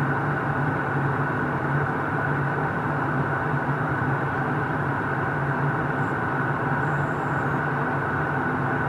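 Airliner cabin noise in flight: a steady rush of engine and airflow noise with a low hum underneath.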